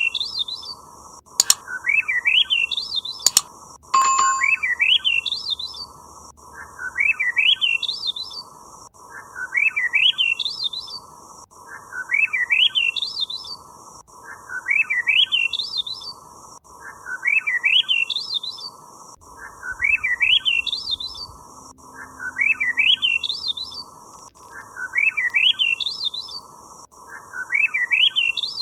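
Bird chirping: a phrase of quick chirps rising in pitch, repeated almost identically about every two and a half seconds, with two sharp clicks a few seconds in.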